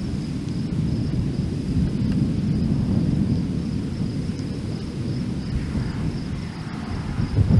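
A thunderstorm's low, continuous rumble of rolling thunder, swelling slightly a few seconds in. A steady, high insect drone, typical of crickets or katydids, runs underneath, and there are a couple of sharp thumps near the end.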